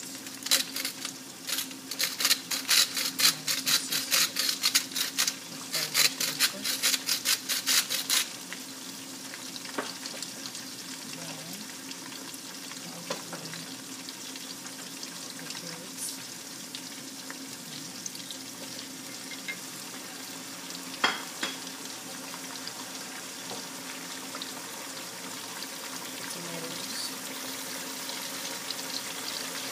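Sliced carrots frying in oil in a pan, a steady sizzle. For the first eight seconds or so it is overlaid by a fast run of scraping strokes, about five a second, and near the end the sizzle grows a little louder as chopped tomatoes go into the hot oil.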